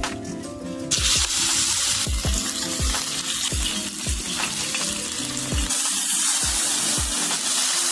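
A tomahawk steak sizzling loudly as it sears, the sizzle starting about a second in. Under it runs background music with a steady beat.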